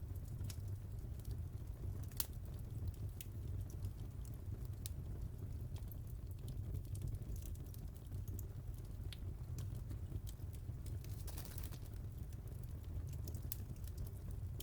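Fireplace fire crackling: scattered sharp pops over a steady low rumble of the flames, with a short hiss about three-quarters of the way through.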